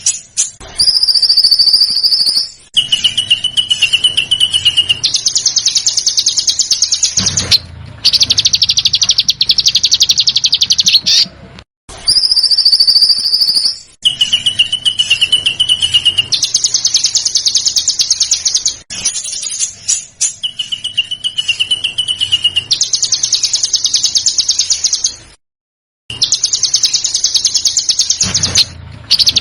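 A small songbird's calls: short steady high whistles alternating with long, dense, buzzy rattling 'besetan' calls, the same sequence repeating over and over with brief silent breaks.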